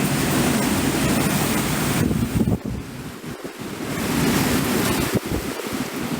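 Hurricane wind gusting and buffeting the microphone, a dense rushing noise. It eases about halfway through, then builds again.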